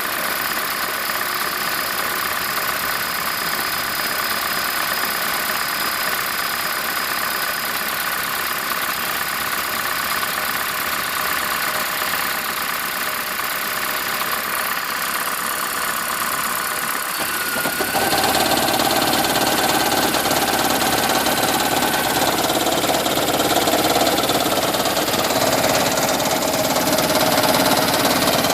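2010 Toyota Prius's 1.8-litre four-cylinder engine idling with the AC on. A little over halfway through, a louder, lower knocking sets in and keeps going. The owner finds this knock comes whenever the engine idles while charging the hybrid battery.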